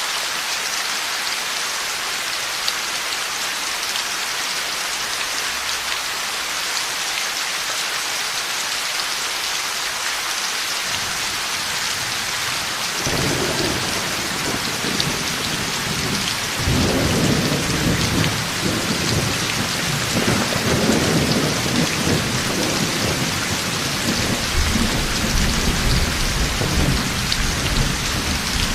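Heavy, steady rain. About halfway through, thunder starts to rumble in, gets louder a few seconds later and keeps rolling to the end.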